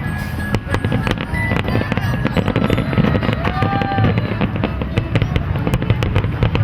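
Fireworks popping and crackling in rapid, dense bursts over a steady low rumble, with music playing underneath.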